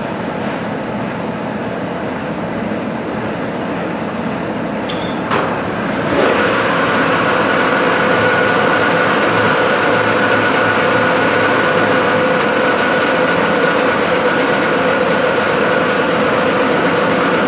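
Metalworking machine tool running, a steady mechanical noise; about six seconds in it grows louder and a steady whine comes in over it.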